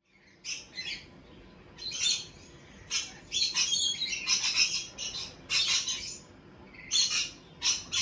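Birds chirping and squawking repeatedly in short, harsh, high-pitched bursts.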